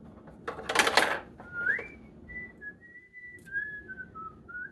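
A short clatter, then a person whistling a few wandering notes: a single thin tone stepping up and down in pitch.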